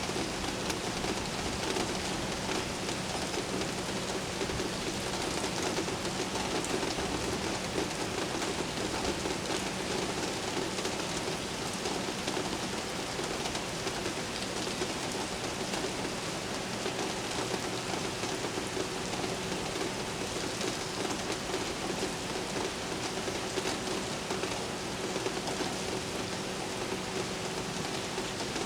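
Steady, heavy rain falling on city surfaces: an even hiss with no thunder. A faint steady low hum runs underneath.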